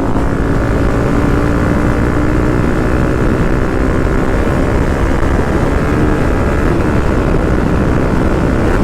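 Motorcycle engine running at a steady pitch while riding, with heavy wind rumble on the microphone.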